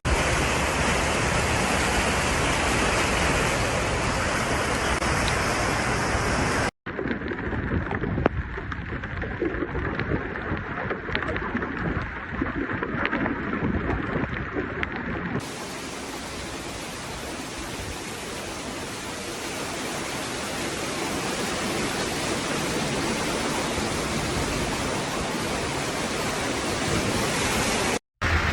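Flash-flood water rushing and heavy rain, a steady rushing noise. It drops out briefly about seven seconds in and again just before the end, and in the middle stretch there are scattered sharp ticks.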